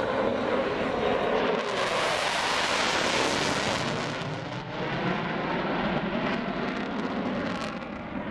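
F-15 fighter jet flying past in full afterburner, its twin engines making a loud, continuous roar that swells about two seconds in and eases off after about four seconds.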